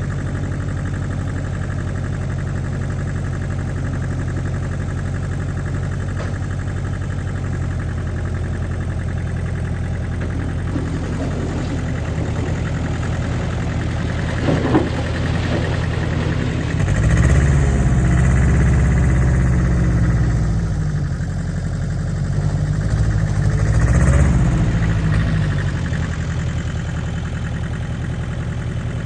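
Allis-Chalmers 5030 tractor's three-cylinder diesel engine idling steadily. The revs rise twice, about 17 and 24 seconds in, and there is a short clunk a little before the first rise.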